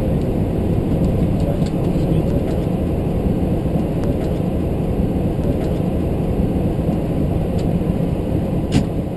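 Steady low rumble of engine and airflow noise heard inside an MD-11 cockpit, with a few faint clicks and a sharper click near the end.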